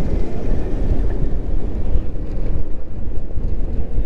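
Wind buffeting the microphone of a moving electric moped, a steady low rumble.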